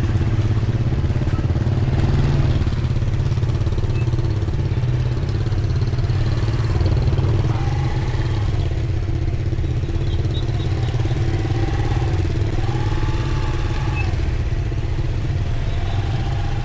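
Steady low rumble of motor-vehicle engines on the road, with a few short tones over it that rise and fall.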